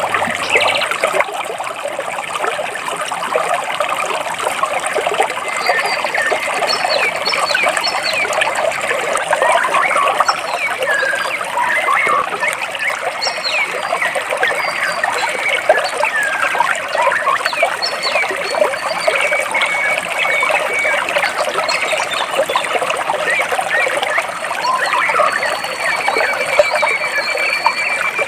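Stream water gurgling and trickling steadily among rocks, with small birds chirping over it. A bird gives a steady trill about two-thirds of the way in and again near the end.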